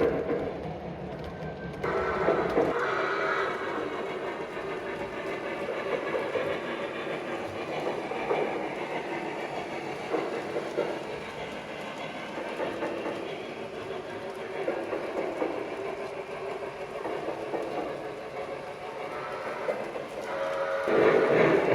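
Lionel Legacy L2a Mohawk O-gauge model steam locomotive running on three-rail track, its RailSounds steam effects playing over the clicking of wheels on rail joints. It is louder about two seconds in and again near the end.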